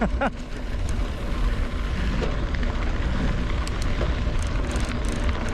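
Strong wind buffeting the microphone while riding a mountain bike, a steady low rumble with a few faint ticks near the end.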